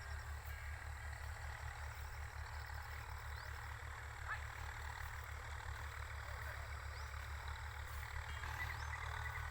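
Tractor diesel engine running steadily as a low, evenly pulsing rumble while it ploughs the field.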